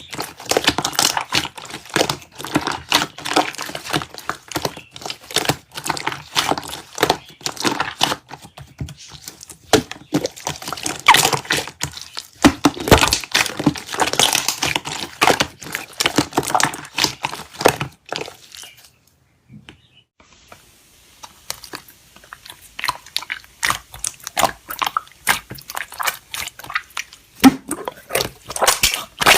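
Slime being squeezed and poked by hand, with dense rapid sticky clicks, pops and crunches. The sound breaks off briefly about two-thirds of the way in and then resumes.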